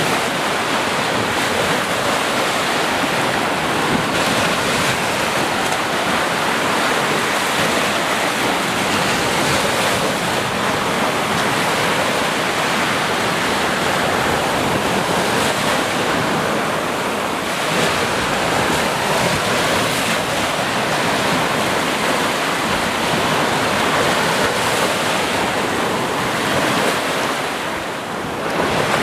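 Ocean waves breaking and washing on the shore in a continuous, loud surf, with gentle swells in level.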